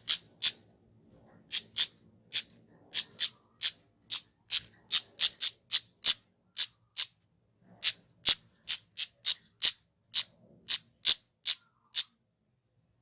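Kemade, a flowerpecker, giving a rapid series of short, sharp, high-pitched chip calls, about two or three a second, that stop about a second before the end.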